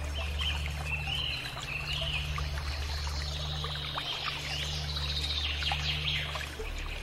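Birds calling with high warbling whistles that rise and fall, over a steady low hum and faint crackle.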